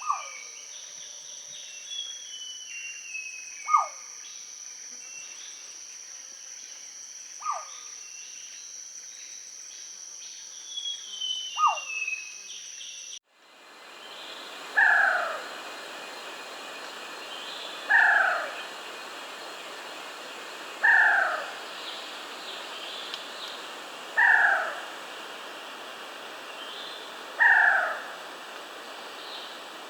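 Malayan banded pitta calling: short whistled notes that fall in pitch, repeated every three to four seconds. About halfway through the recording changes, and the calls come louder about every three seconds, over a steady high insect drone.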